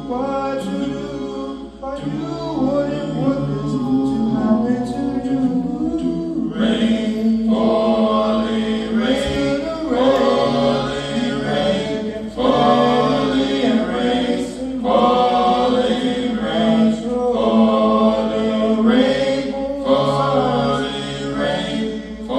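Layered, repeating voice recordings overlapping into a dense, choir-like vocal wash.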